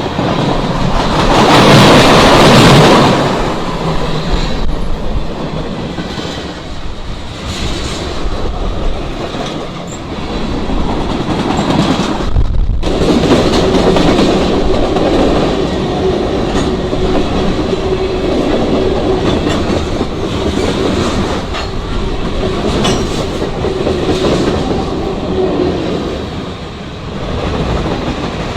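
Freight train cars rolling past, wheels clicking over the rail joints, with a loudest swell about two seconds in. A steady tone then runs under the clatter through the middle of the pass.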